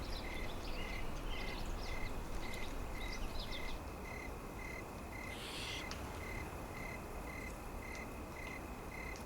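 Winter forest ambience: a steady low rush of wind noise, with a short high pip repeating about twice a second, and quick small-bird chirps over the first few seconds.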